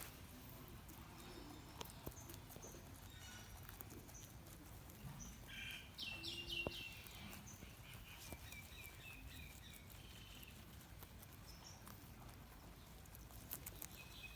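Rabbits chewing and nibbling food: faint, scattered crunching and rustling clicks, with a brief high chirping about six seconds in.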